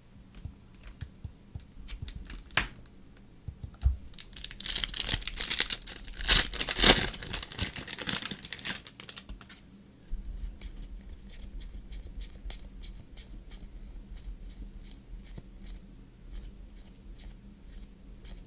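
Trading-card pack wrappers being torn open and crinkled for about five seconds, from about four seconds in, with light clicks and taps of cards being handled before and after.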